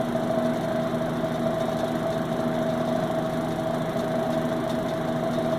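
Vintage Hurricane 12-inch box fan running on high: a steady motor hum with the whoosh of the blade. It vibrates because its blade is cracked, and its grills add to the noise.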